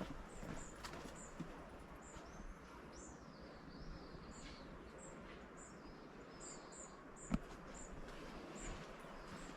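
Birds singing: one repeats a short, high chirp about twice a second, while another sings a warbling phrase in the middle. A single sharp tap sounds a little after the seventh second.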